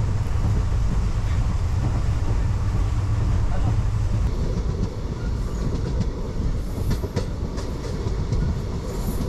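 Indian Railways passenger train running, heard from inside a sleeper coach: a steady low rumble of the wheels on the track. Through the second half, sharp clacks of the wheels over the rail joints cut into it.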